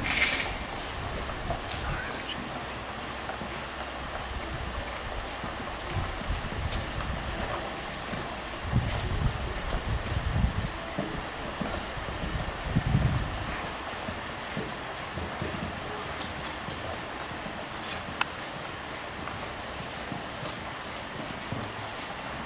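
Heavy rain falling, an even, steady hiss of drops. Low muffled thumps come and go in the middle stretch.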